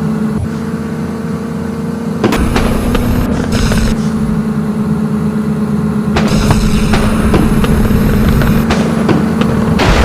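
SUV engine running at steady revs, a constant drone over a low rumble, with a few sharp knocks about two, three and six seconds in.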